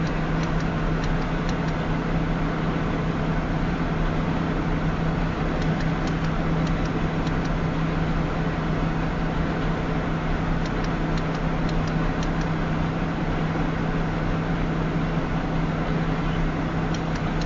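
Steady road and engine noise of a car moving at about 28 mph, heard inside the closed cabin, with a constant low hum.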